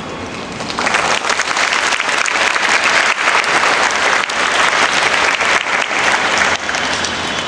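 Audience applauding, starting about a second in and stopping abruptly near the end, over a steady background hum.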